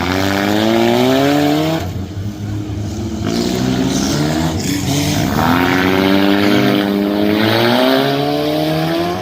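Junk race car engines accelerating, rising in pitch for about two seconds, easing off, then climbing again in a longer run from about five and a half seconds in.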